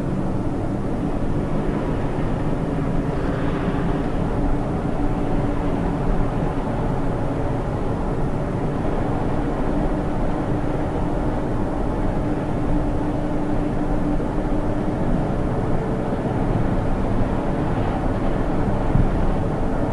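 Hyundai Tucson's 2.0-litre four-cylinder petrol engine running at low road speed over tyre and road rumble, heard inside the cabin. The engine note rises about three-quarters of the way through.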